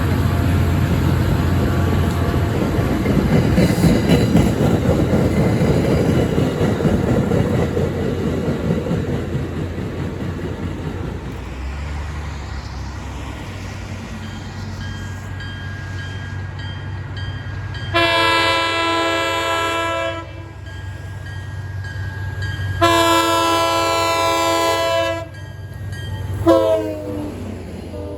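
A train rumbles past, then a locomotive's engine drones steadily and its multi-note air horn sounds two long blasts of about two seconds each, followed by a short blast that sags in pitch near the end.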